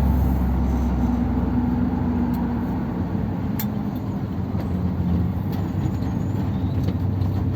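Old Ford Thunderbird's engine running steadily, a low hum, with a few faint clicks over it.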